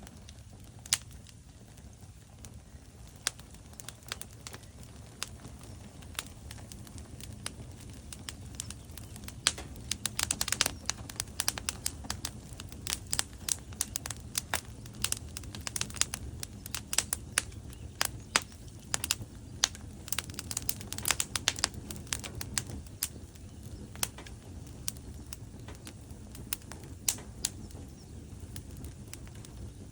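Wood fire burning in a fireplace: logs crackling and popping over a low steady rumble of flames, the pops sparse at first, coming thick and fast through the middle, then thinning out.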